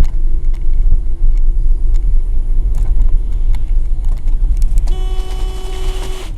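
Car interior and road noise as heard by a dashcam, a loud steady low rumble. A car horn sounds once near the end and is held for about a second and a half.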